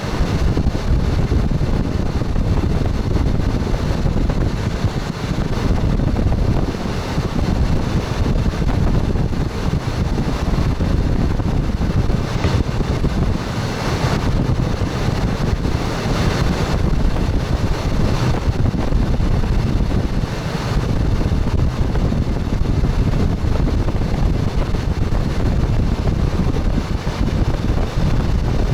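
Express train running along the track, heard from its front cab: a steady rumble of wheels on rails with wind noise over it and a few faint knocks in the middle.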